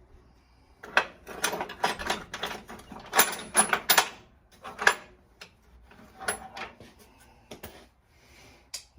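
Metal hand tools clicking and clanking in quick irregular bursts, busiest over the first half, then a few scattered clicks.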